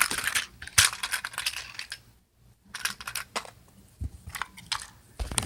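Hard plastic clicks and clatter from Trackmaster toy train engines being handled and set down, with a short pause in the middle.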